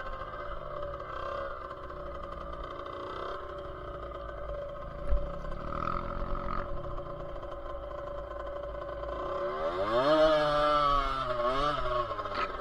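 Dirt bike engine revving up and down as it rides, rising sharply to a high rev about ten seconds in. There is one sharp knock about five seconds in.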